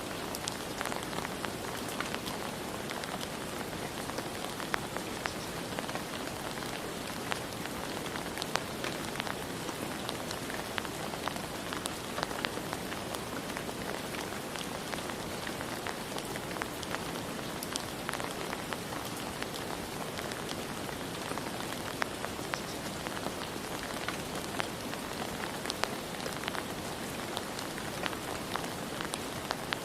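Steady rain falling, a continuous even hiss with many individual drops ticking sharply on a hard surface throughout.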